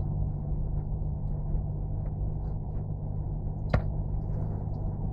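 Vehicle engine running with a steady low hum, and a single sharp click about three and a half seconds in.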